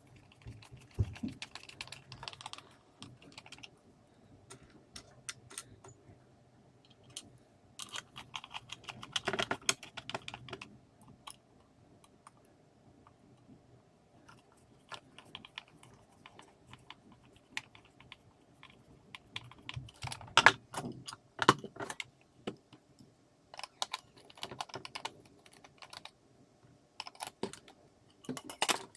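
Small plastic and metal parts being handled during a lantern work light switch repair: scattered sharp clicks and light rattles, coming in denser clusters about a third of the way in and again about two-thirds in.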